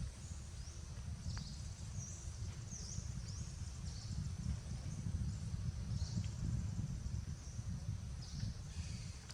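Outdoor ambience: a steady low rumbling noise, with short high-pitched chirps from small animals repeating every second or so.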